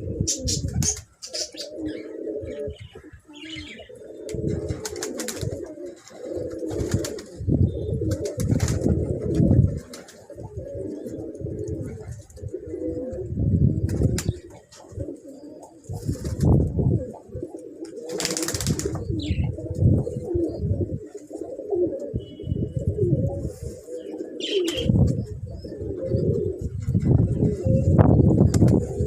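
Domestic pigeons cooing, several birds' low, repeated coos overlapping without a break. A short rustling noise comes about two-thirds of the way through.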